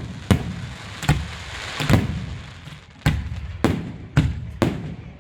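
Firework display: about seven sharp bangs of bursting shells, irregularly spaced over five seconds, with a noisy hiss between them.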